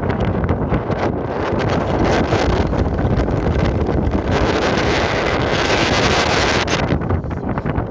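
Strong wind buffeting the microphone: a loud, rough rumbling rush that swells in a gust through the middle and eases near the end.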